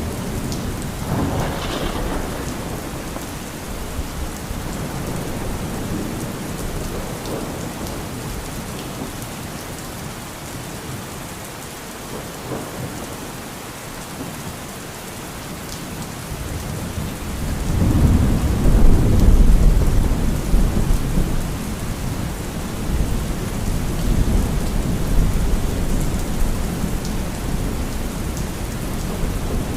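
Steady heavy rain during a thunderstorm. There is a short crack of thunder about two seconds in, and a long, deep roll of thunder builds a little past halfway, peaks and then slowly fades under the rain.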